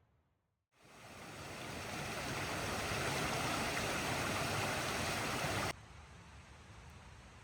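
A steady rushing noise that fades in about a second in, holds evenly, then cuts off abruptly near the end, leaving a fainter hiss.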